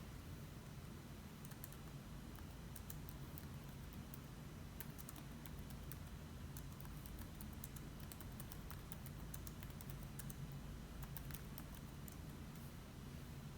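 Faint typing on a computer keyboard: irregular runs of key clicks starting about a second and a half in, over a low steady hum.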